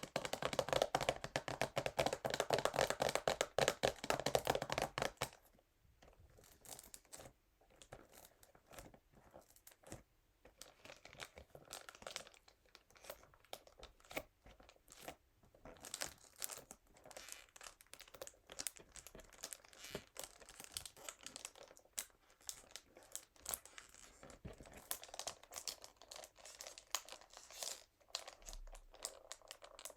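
Fingernails tapping and scratching on a perfume box in crinkly plastic wrap, the wrap crinkling. The sound is loud and rapid for about the first five seconds, then turns to softer, scattered taps and crinkles.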